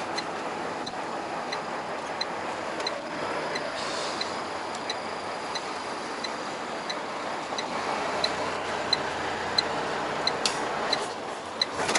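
Steady road and engine noise inside a Volvo truck's cab, with the turn-signal indicator ticking about one and a half times a second. A few sharper clicks come near the end.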